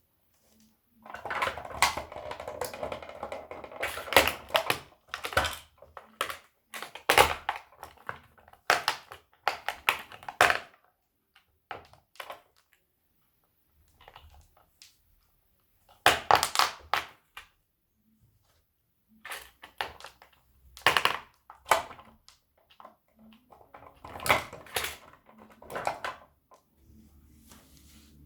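A toy tow truck and toy car cracking and crunching under stomping feet: bursts of sharp snaps, a dense run near the start, then shorter bursts with quiet pauses between.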